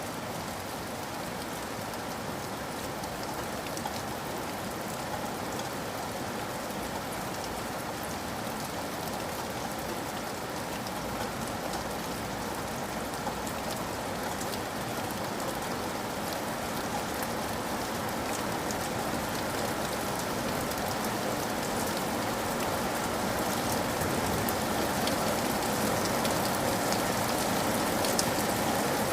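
Steady rain falling, a continuous patter of drops that grows slightly louder toward the end.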